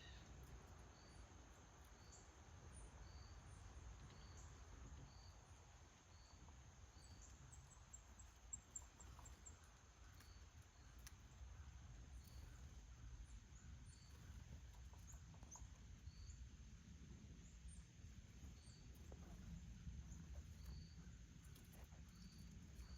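Near silence: faint outdoor background hum with a faint high chirp repeating about once a second.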